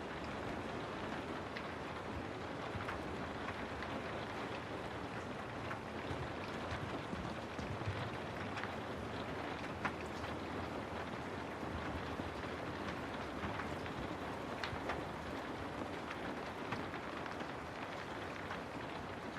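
Steady rain falling, an even hiss with separate drops ticking sharply here and there.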